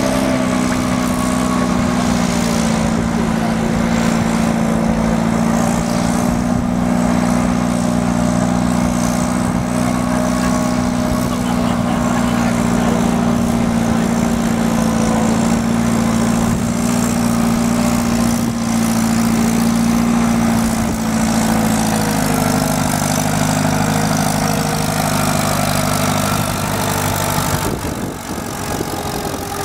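A large engine idling steadily, its pitch settling slightly lower about three-quarters of the way through.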